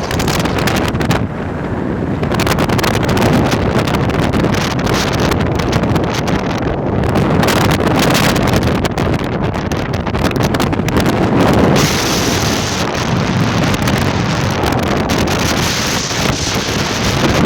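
Strong wind buffeting the microphone in gusts, a loud, uneven rumbling roar.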